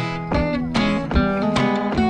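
Background music: acoustic guitar with plucked and strummed notes in a steady rhythm.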